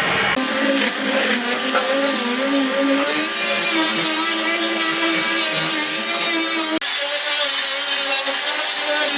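A power tool's motor running steadily, its pitch wavering slightly as it works. It drops out for an instant about two-thirds of the way through.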